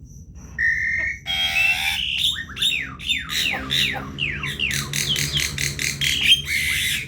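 Javan myna calling at close range: a short whistle, then a harsh squawk, then a rapid string of down-slurred whistled notes.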